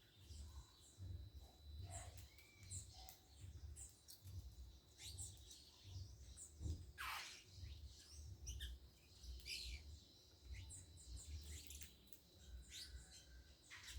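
Faint, scattered high chirps and short calls of small birds, with one quick falling note about halfway through, over a low rumble.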